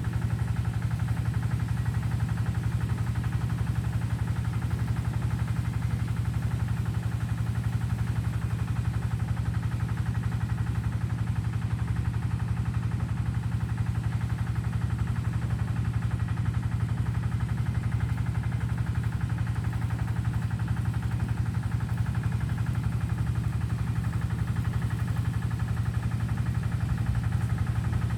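A steady, low engine-like hum with a fast, even pulse, unchanging throughout.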